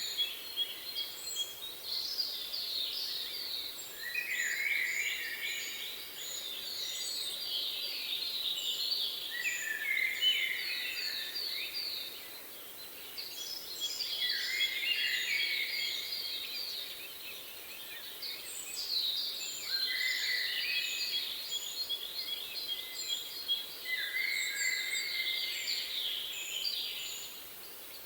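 Several songbirds singing at once in a steady chorus: overlapping fast trills and chirps, with a thin high note repeated in runs over them.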